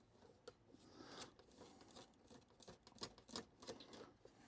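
Faint clicking and scraping of a small flathead screwdriver working the screws of a screw-terminal block, backing them out, with irregular light metal clicks throughout.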